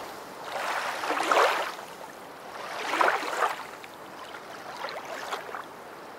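Water washing in like small waves, in three rising and falling swells about a second and a half apart, the last one weaker.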